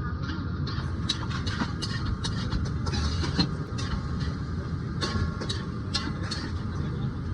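Busy street-food stall: a steady low rumble with many irregular sharp clicks and clinks throughout.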